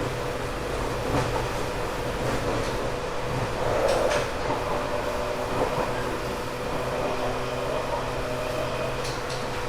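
Interior running noise of a moving 1978 JR 189 series electric train, heard inside a motor car fitted with MT54 traction motors. A steady rumble runs under the hum of the motors, which gain extra tones about halfway through. Brief clicks come from the wheels about four seconds in and near the end.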